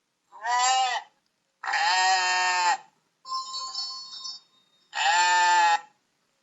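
Sheep bleating: four drawn-out bleats with short gaps between them, the third quieter than the rest.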